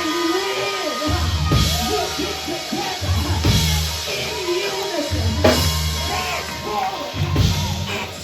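Live church worship music: a band with drum kit and bass, a voice singing a flowing melody over it.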